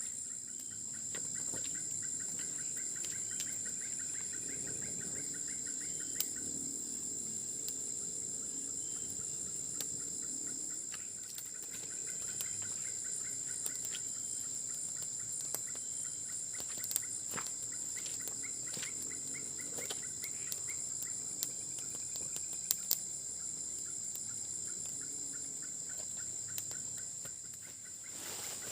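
Steady, high-pitched chorus of crickets or other night insects, with trains of rapid chirping pulses coming and going and a few scattered sharp clicks.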